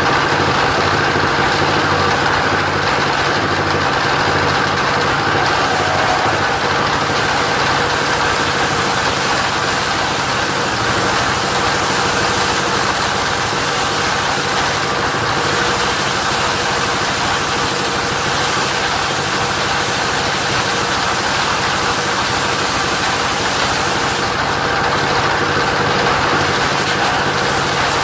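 Engine of a mobile machine sawmill running steadily at an even speed.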